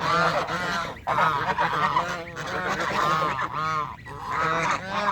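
White domestic geese honking loudly, several birds calling over one another in a run of repeated harsh honks.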